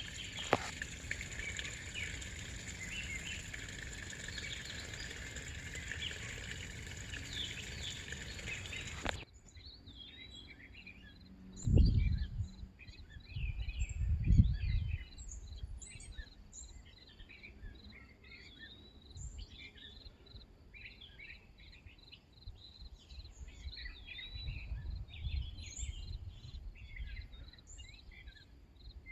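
Outdoor rural ambience with many small birds chirping. The first nine seconds hold a steady, dense hiss with high held tones that cuts off suddenly. Two low rumbles on the microphone come about twelve and fourteen seconds in and are the loudest sounds.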